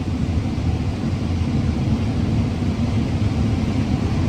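Combine harvester running steadily while harvesting corn: an even, low drone with no change in pitch.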